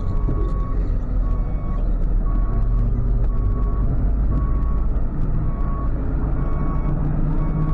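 Ford F-550 tow truck's backup alarm beeping steadily, about one beep a second, over the truck's engine idling.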